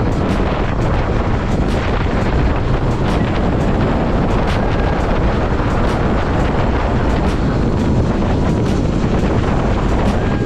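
Steady wind buffeting the microphone on a moving motorcycle, with road and engine noise underneath.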